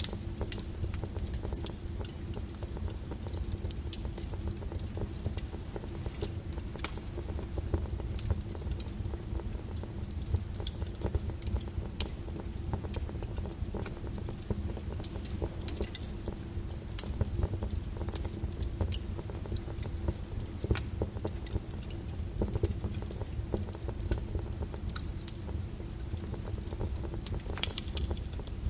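Wood fire crackling in a fireplace: irregular sharp snaps and pops over a low steady rumble of the burning flames.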